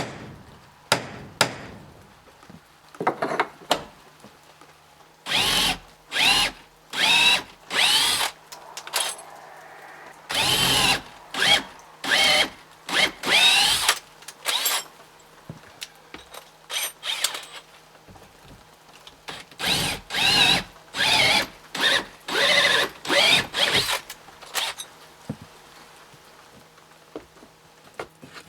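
Power drill run in short bursts of under a second each, in three clusters, its pitch wavering within each burst. Sharp taps and knocks come in between.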